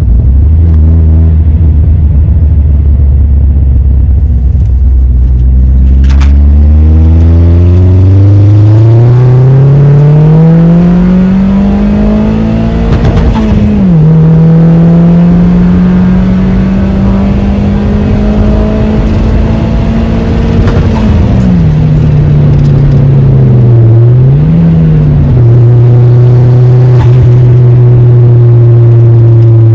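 Vauxhall Zafira engine pulling hard, its note climbing for several seconds before dropping sharply at a gear change about halfway through. It rises slowly again, eases off, and then runs at a steady lower pitch.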